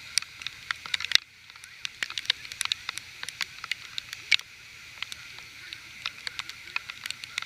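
Rain: many irregular sharp taps of raindrops striking a hard surface close to the microphone, over a steady hiss.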